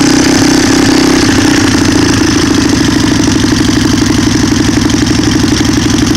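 Old Honda FourTrax ATV's single-cylinder four-stroke engine running steadily just after a hard cold start, with an even, healthy-sounding exhaust note.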